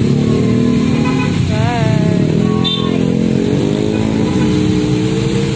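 Red BMW adventure motorcycle's engine running as the bike rolls slowly and pulls up, its pitch rising and falling with the throttle.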